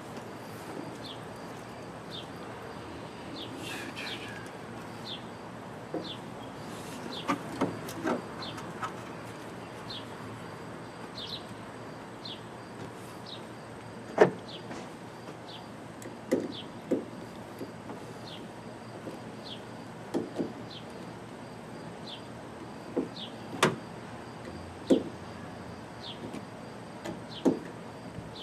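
Scattered sharp clicks and knocks of hand work on a clamp holding a light to a truck bed, the loudest about 14 and 23 seconds in. A high, short chirp repeats about once a second behind them.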